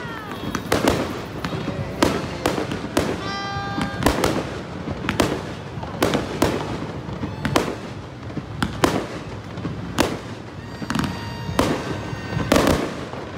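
Aerial firework shells launching and bursting: a run of sharp bangs at an uneven pace, about one or two a second, over a constant background din.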